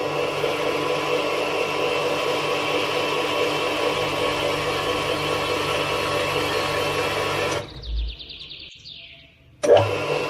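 Small electric motor whirring steadily, cutting off suddenly a little over two-thirds of the way in. A low thump and a few short, high, falling chirps follow, then the motor starts again with a jolt near the end.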